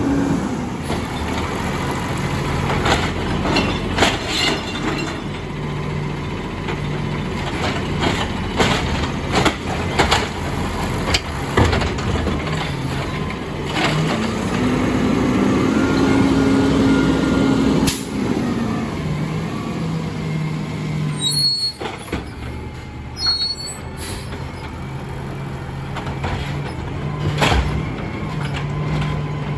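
Amrep N3 garbage truck at work: its diesel engine runs steadily, revs up for a few seconds in the middle, and the truck gives repeated sharp knocks and bangs as it handles the carts.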